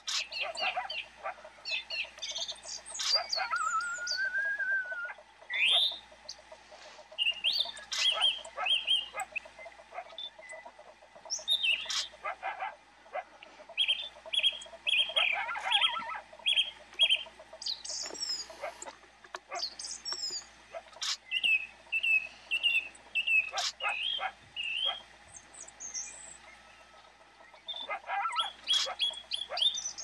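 Small birds chirping and calling again and again: short high notes, some in quick even series, with a few sliding calls.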